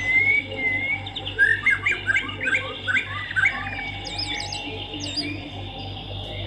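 Swiftlets chirping and twittering in quick, rapid-fire calls, over a low, steady hum.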